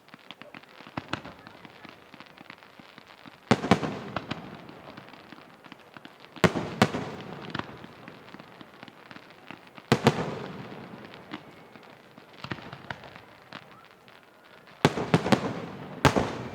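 Aerial firework shells bursting: five loud booms a few seconds apart, two of them close together near the end, each followed by a rolling echo and crackle, with many smaller pops and crackles in between.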